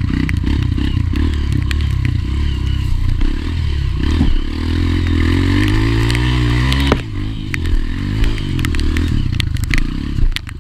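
Honda CRF230F trail bike's single-cylinder four-stroke engine working up a muddy hill climb. The revs rise for a few seconds, then drop suddenly about seven seconds in, with rattles and clatter from the bike over the whole time.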